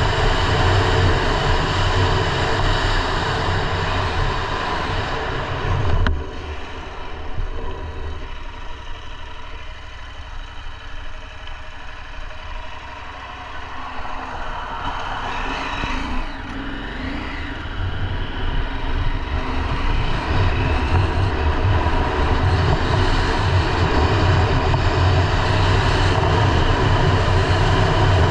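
KTM 890 Adventure R's parallel-twin engine running at road speed with wind noise. About six seconds in the throttle closes and the sound falls away for several seconds. It builds back up and runs at full level again from about twenty seconds in.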